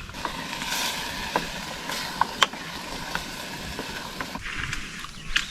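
Campfire crackling and hissing, with a few sharp pops; the hiss stops shortly before the end, leaving bird calls.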